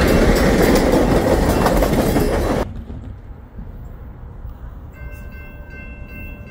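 Passenger train cars rolling past at close range, wheels clattering on the rails. The sound cuts off suddenly about two and a half seconds in. A much quieter stretch follows, with faint steady high tones from about five seconds in.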